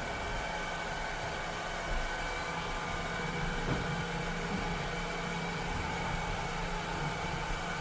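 A cleaning robot running steadily: an even motor hum with a few steady whining tones over a hiss, and a few faint ticks.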